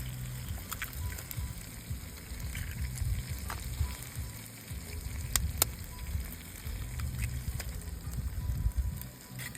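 Meat frying and sizzling over a wood fire, with scattered sharp pops and crackles over a low rumble.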